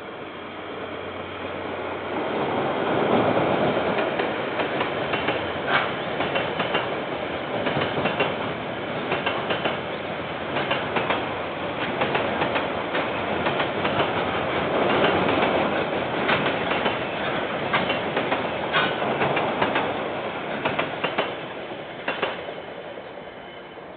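Freight train of container wagons rolling past, its wheels clicking and clattering on the rails. It grows louder over the first few seconds and fades away near the end.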